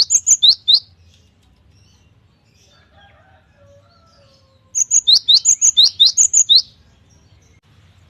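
Cinereous tit (gelatik batu) singing: two phrases of rapid, repeated high chirping notes, one right at the start and a longer one about five seconds in, with a pause between.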